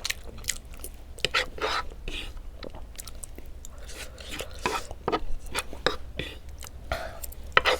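A person eating close to the microphone: irregular chewing and wet mouth sounds with short clicks, typical of mukbang eating noises.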